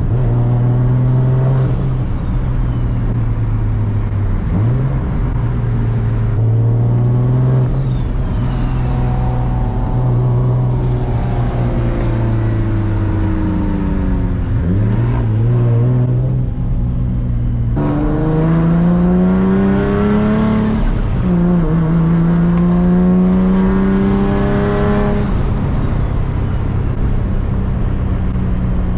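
Turbocharged Nissan 350Z's VQ35HR V6 under way, its engine note cruising steadily, dipping and recovering twice with gear changes, then pulling up in pitch under acceleration about two-thirds of the way through, dropping sharply at a shift and climbing again.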